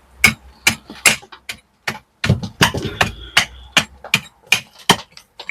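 Hammer blows on stone, about four sharp knocks a second, the kind made chipping loose mortar out from around cobbles.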